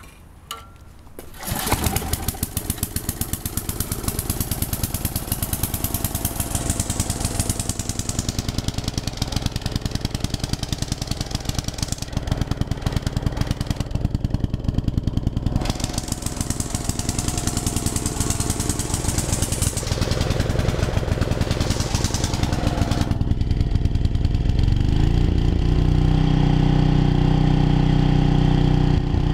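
Briggs & Stratton 10 hp generator engine starting about a second and a half in, then running. Its note wavers at first and settles into a steady run near the end.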